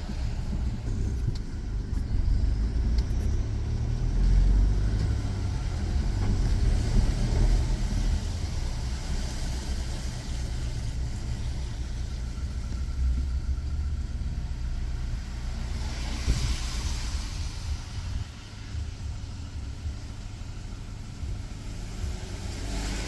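Road vehicle driving, a steady low engine and road rumble, with a rush of tyre-and-air hiss swelling about sixteen seconds in.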